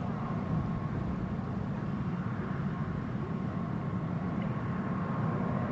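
Distant jet airliner engines running steadily: a low rumble with a faint steady whine above it, mixed with strong wind buffeting the microphone.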